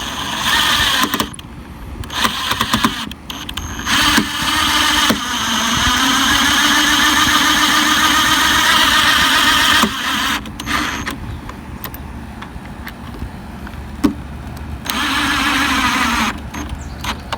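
Power drill running in several bursts, the longest about four seconds, with a steady motor whine, likely driving screws to mount fittings on the boat.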